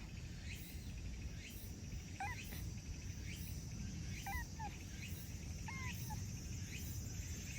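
Outdoor ambience: a steady low rumble under an insect's high, evenly pulsing trill, with about six short chirping calls in the middle.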